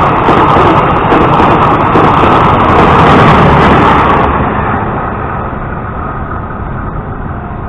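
Passenger train rushing past close by at speed: a loud, steady rush of wheels on rails. About four seconds in it cuts off abruptly to a much quieter, steady rumble.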